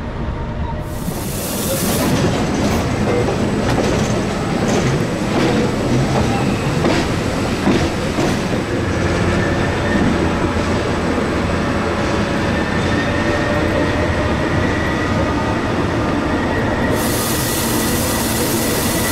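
Electric rack-railway train running along the track: a steady rumble with a run of sharp wheel clacks over the first half, then a thin high squeal from the wheels.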